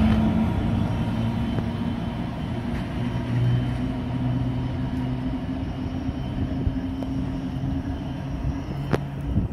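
82 class diesel-electric locomotive's engine running with a steady low drone as it draws away, over the rumble of loaded hopper wagons rolling past on the rails. A single sharp click about nine seconds in.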